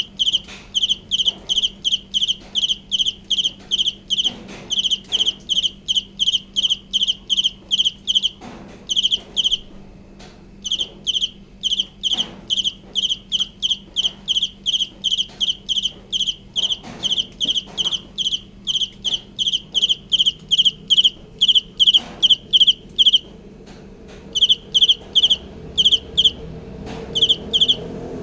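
A cricket chirping in an even rhythm, about two to three short, high pulsed chirps a second. The chirps pause briefly twice.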